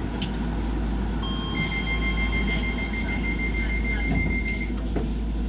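Docklands Light Railway train's door-closing warning: a rapid pulsing high beep lasting about three seconds, over the steady hum of the train.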